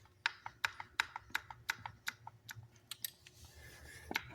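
A quick, irregular series of small clicks and taps, about three a second, as loosened metal knotter parts from a Massey Ferguson 224 baler are wiggled back and forth to work them free.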